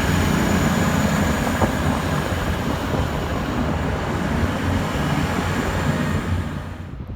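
A train running by with a steady low rumble and a faint high whine, fading away near the end before cutting off.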